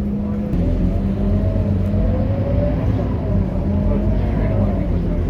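Scania K230UB city bus's five-cylinder diesel engine running under way, its pitch rising and dipping as the bus changes speed.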